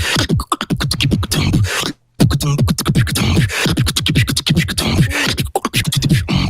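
Beatboxing a house beat: rapid mouth-made kick drums, snares and hi-hats in a steady groove, with one sudden short stop about two seconds in before the beat drops back in.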